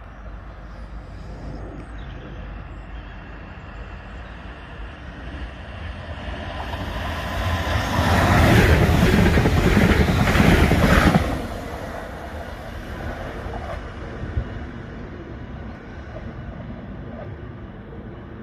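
Class 360 Desiro electric multiple unit passing at speed. It builds from a distant rumble, is loudest for about three seconds as the carriages rush past, drops off suddenly as the last carriage clears, then fades away.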